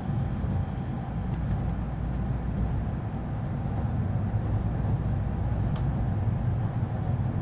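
Steady low rumble of an N700A Shinkansen running at speed, heard from inside the passenger car.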